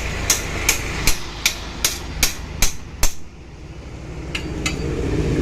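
Hammer blows driving out the seized gudgeon pin of a Hero Honda Splendor's piston. The pin is stuck because the engine was run without oil. About nine sharp, evenly spaced strikes, roughly two and a half a second, stop about three seconds in; two more taps follow near the end, over a low vehicle rumble that grows louder.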